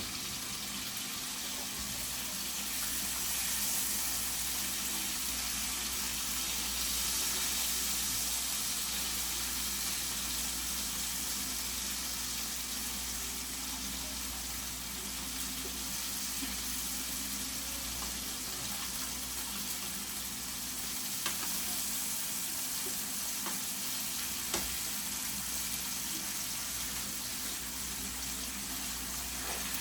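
Chicken frying in a pan, a steady sizzle, with a few light clicks in the second half.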